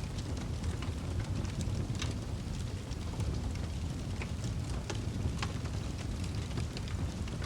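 Wood fire burning in a fireplace: a steady low rumble of the flames with irregular sharp crackles and pops from the logs, a few louder pops scattered through.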